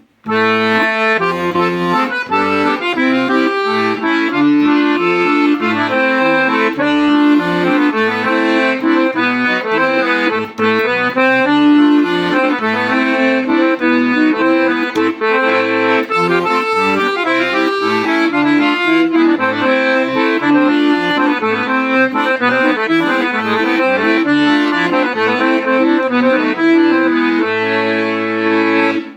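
Mantovanelli 72-bass accordion playing a tune, a melody over quick short bass notes and held chords, ending on a long held chord that cuts off suddenly at the end.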